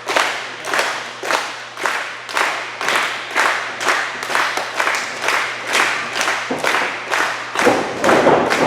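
Steady rhythmic slaps, about two a second, echoing through the arena, with crowd cheering swelling near the end.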